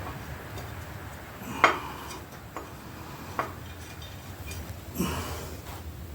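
A few separate sharp metal clinks and knocks from hand tools working on the engine's motor mount brackets, the loudest about one and a half seconds in, over a low steady hum.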